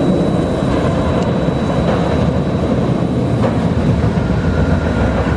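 Roller coaster train running on its track: a loud, steady rumble.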